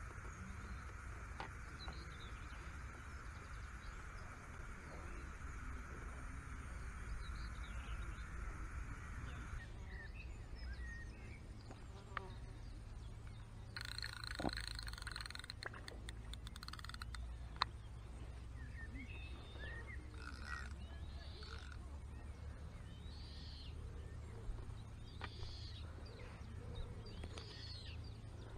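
Lakeside ambience: a low steady rumble, with a steady hiss that stops about ten seconds in, then scattered short bird calls. A few sharp clicks of tackle being handled.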